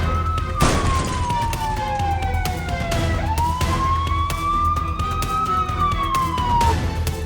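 Emergency vehicle siren wailing, its pitch sliding slowly down and back up twice over steady background music. A short burst of noise comes about half a second in.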